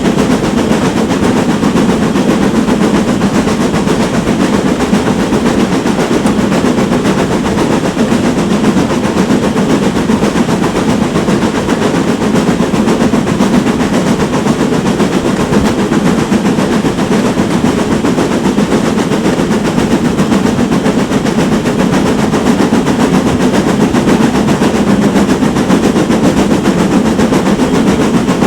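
Steam train running steadily: a loud, continuous rapid clatter.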